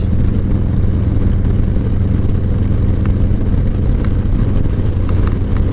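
Steady low drone of a moving vehicle: engine and road noise, unchanging throughout, with a few faint ticks.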